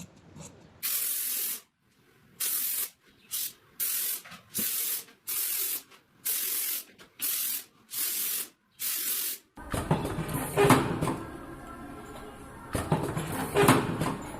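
About ten short spray bursts, each a hiss lasting around half a second with brief silences between. About two thirds of the way through they stop and a louder, busier sound of knocks and rattles takes over.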